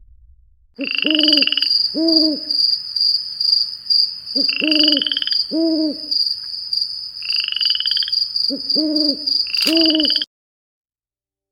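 Forest animal calls: low hooting notes in pairs come in three groups, over a steady high insect whine, with rising calls higher up in each group. The sound cuts off suddenly near the end.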